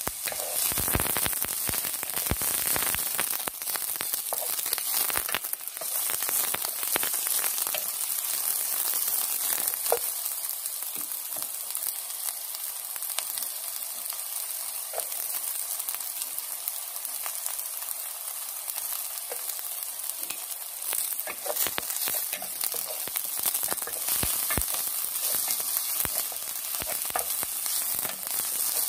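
Chopped onion and garlic sizzling steadily in hot oil in a pot, with scattered clicks and knocks.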